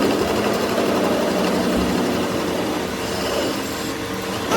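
A motor-driven machine running steadily with a constant drone and no change in speed.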